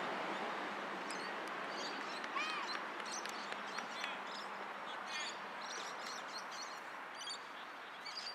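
Birds chirping over steady outdoor background noise, with one short arching call about two and a half seconds in.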